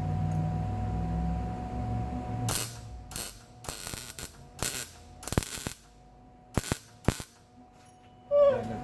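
Welding arc crackling on a steel exhaust pipe in about seven short bursts, stopping and starting as a beginner lays the weld. A low steady hum comes first, for the first couple of seconds.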